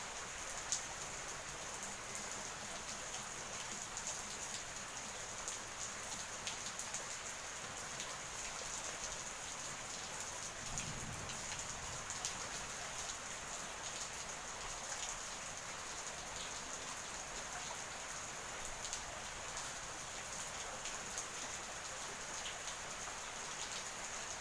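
Steady rain: a continuous hiss with scattered sharp ticks of drops hitting close by.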